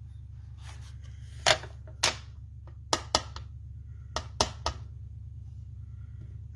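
A rubber stamp being inked on an ink pad and pressed onto cardstock: a series of sharp taps, two or three close together at a time, over a steady low hum.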